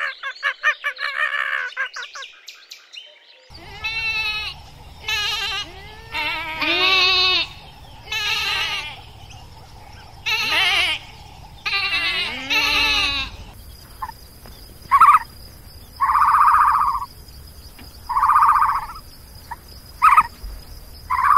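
A lamb bleating repeatedly: about six quavering bleats, each roughly a second long. Before them comes a brief run of rapid chattering calls. About two-thirds of the way through, the bleats give way to a different animal's short pulsed calls, each about a second long and coming every two seconds or so, over a steady high hiss.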